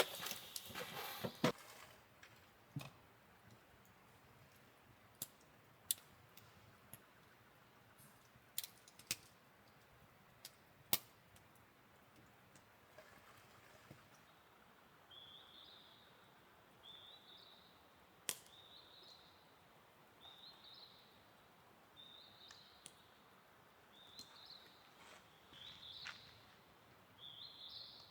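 Faint scattered sharp clicks and taps. From about halfway, a bird calls over and over, a short rising high chirp about once a second.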